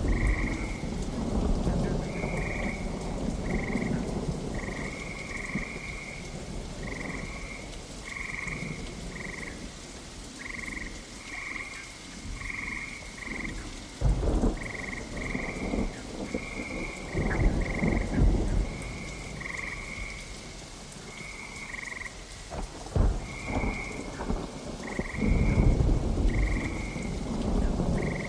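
Steady rain with several low rolls of thunder. Frogs call over it in short, repeated, high croaks, about one a second.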